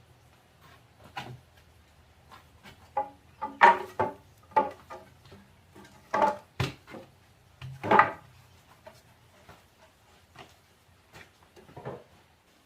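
Irregular wooden knocks and clatter, a dozen or so, some ringing briefly, loudest in the middle stretch, like boards or wooden pieces being handled and struck.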